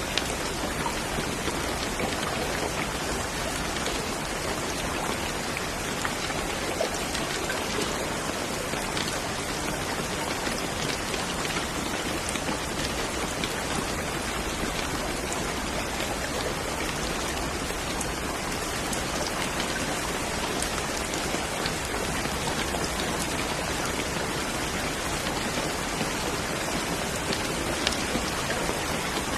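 Steady rain falling, with the ticks of single drops landing scattered through it.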